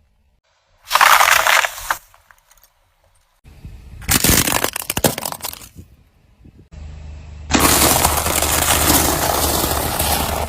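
Objects being crushed under a car's tyre, in short cut-together takes: a loud crunch about a second in, a crackling run of snaps and cracks a few seconds later, then a low engine rumble under a long, loud crushing noise near the end.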